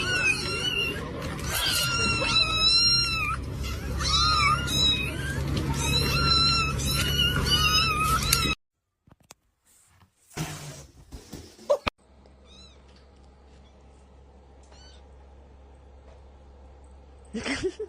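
Several kittens meowing over one another, many short high-pitched mews in quick succession. This stops abruptly about eight and a half seconds in, leaving only a few faint, scattered mews.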